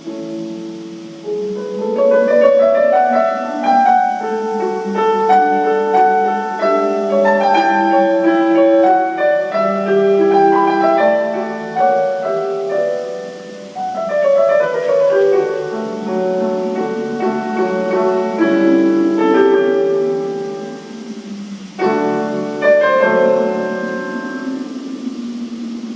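Instrumental piano music in quick, cascading runs of notes, with new phrases beginning about 14 and 22 seconds in.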